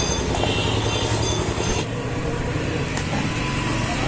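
An engine running steadily with a rapid low pulse, and faint high tones over it during the first couple of seconds.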